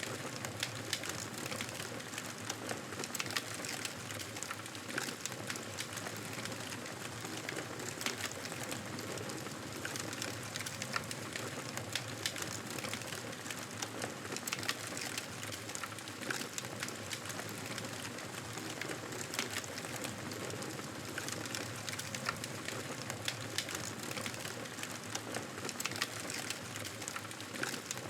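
Wood fire crackling in a fireplace: a steady hiss with many small irregular crackles and pops.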